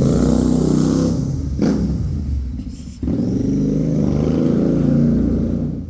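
Royal Enfield GT650's parallel-twin engine running through a loud aftermarket silencer, being revved: the note sags, then picks up sharply about three seconds in. A single sharp crack comes about a second and a half in, and the sound dies down at the very end.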